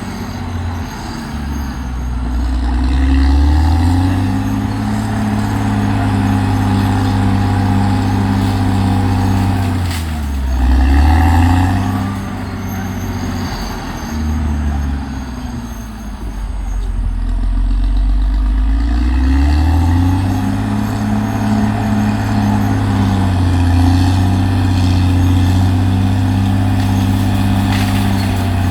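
Caterpillar D6R XL bulldozer's diesel engine working under load, its note dipping and climbing back up several times as the load and throttle change.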